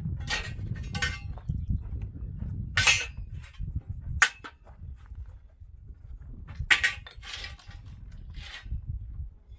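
Irregular clanks and knocks, about seven sharp hits spaced a second or more apart, some with a brief ring, over a low steady rumble. They sound like materials or tools being handled during building work.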